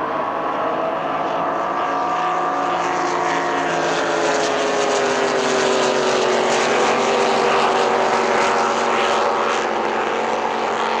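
Racing powerboat engine running hard at speed, its pitch falling over the first few seconds and then holding steady.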